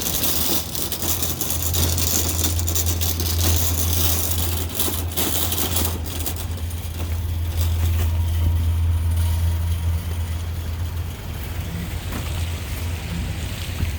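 A motor vehicle's engine running with a steady low drone, under a hiss that is strong at first and eases off about six seconds in.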